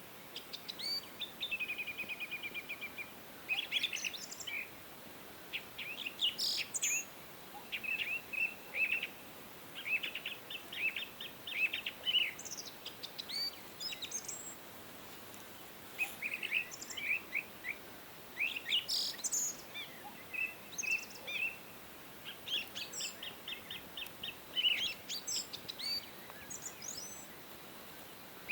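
Several songbirds singing and chirping, overlapping short trills and rapid chirp series, with brief pauses, over a faint steady hiss.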